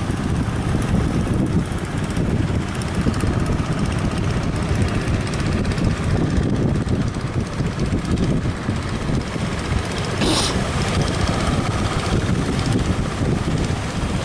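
Strong wind buffeting the microphone over the steady drone of fishing boat engines heading out to sea, with a brief hiss about ten seconds in.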